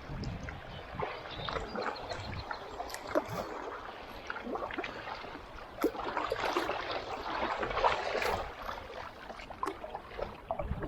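River water rushing and splashing around a kayak as it runs a stretch of rapids, with many short splashes from paddle strokes. The water is busier and louder from about six seconds in.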